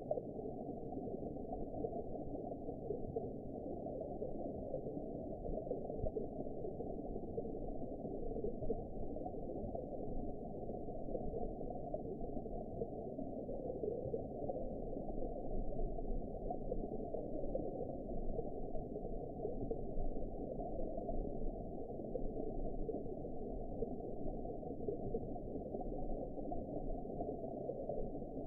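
Underwater ambience: a steady, muffled low wash of water noise with no high sounds at all and no distinct events.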